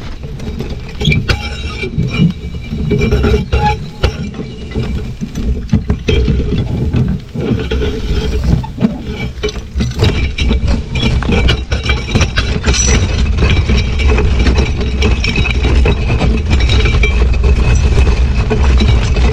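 Horse-drawn cultivator rattling and clinking as the horse pulls it along the garden rows, with irregular metal clatter over a steady low rumble that grows louder in the second half.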